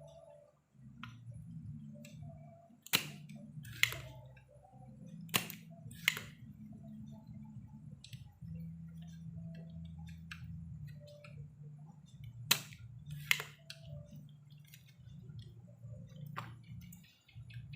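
Sharp clicks and taps of small hard objects, mostly in pairs, over a low steady hum.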